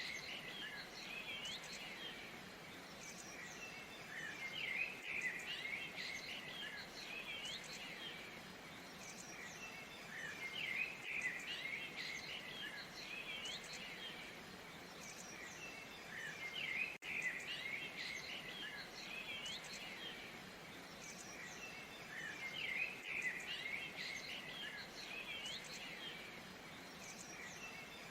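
Birds chirping and twittering in repeated bursts every few seconds over the steady rush of a waterfall.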